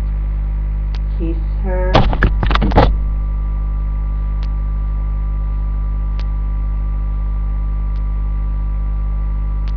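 Steady low electrical mains hum with a faint tick repeating about every two seconds. About two seconds in comes a short, loud burst of sound lasting under a second.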